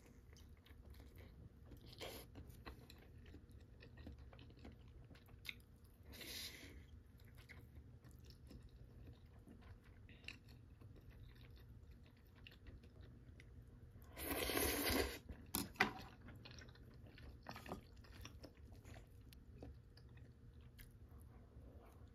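Close-up eating sounds of a person chewing and biting on udon and fish cake, with faint clicks throughout. About two-thirds of the way through there is one louder noisy burst lasting about a second.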